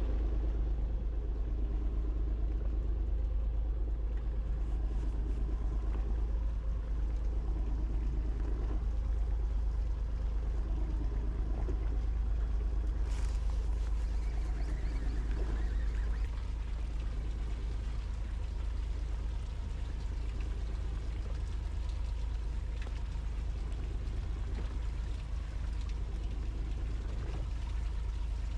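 Charter fishing boat's engine running steadily, a deep rumble with water noise over it, easing slightly about halfway through.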